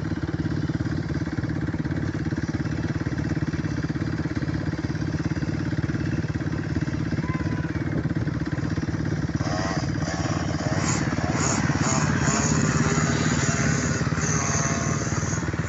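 Small engines running steadily at an even pitch. From about ten seconds in, brief high-pitched calls join over the engine sound.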